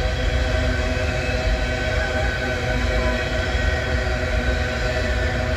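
Empty coal train's hopper cars rolling past: a steady rumble of wheels on rail with several steady high whining tones over it, a whine put down to recent grinding of the rails.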